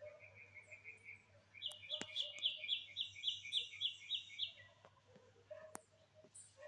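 A bird singing a quick run of repeated high chirps, about four a second, after a softer, lower run of similar notes.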